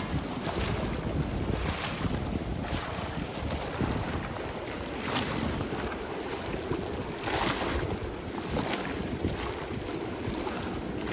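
Sea waves washing onto the beach in a series of hissing swells, with wind buffeting the microphone in a steady low rumble.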